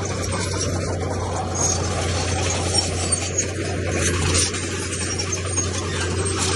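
Komatsu D31P bulldozer's diesel engine running steadily, with scraping and small clinks of stone and steel over it.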